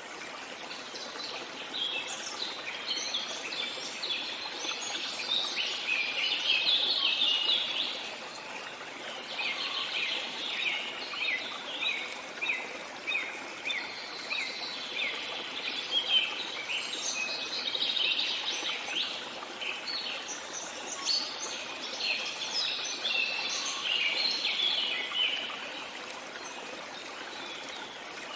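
Songbirds singing in quick chirping phrases over the steady rush of a flowing stream. The birdsong starts about two seconds in and fades out shortly before the end, leaving the water alone.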